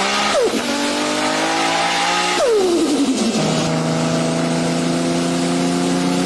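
Car engine under hard acceleration through the gears. Its note climbs slowly in each gear and drops sharply at two shifts, about half a second in and again about two and a half seconds in.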